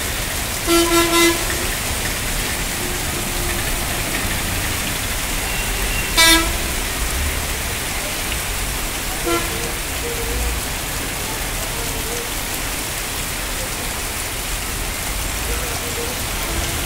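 Heavy rain pouring onto a flooded street, a steady hiss, with vehicle horns honking over it: three quick toots about a second in, a louder toot about six seconds in, and a short one around nine seconds.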